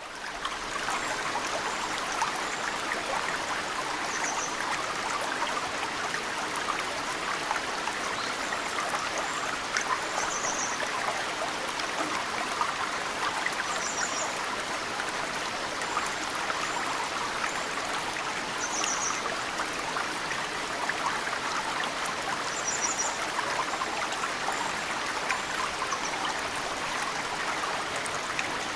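Mountain stream running steadily, with snowmelt trickling and dripping into it. Small birds chirp briefly, high-pitched, every few seconds.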